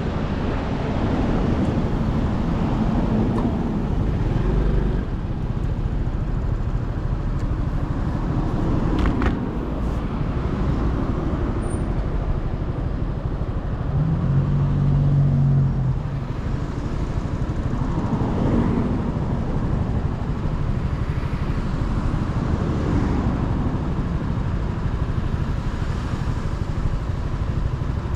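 Motorcycle engine and wind noise heard from the rider's position while riding, the engine note rising and falling several times with the throttle, with a steady low hum for about two seconds around halfway through.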